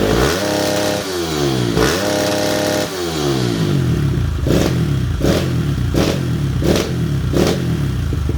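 Kawasaki KLX single-cylinder four-stroke with a bored-up cylinder, running through a Norifumi Rocket 4 aftermarket exhaust: revved up and held twice, then five quick throttle blips about one every 0.7 s, dropping back to idle between them.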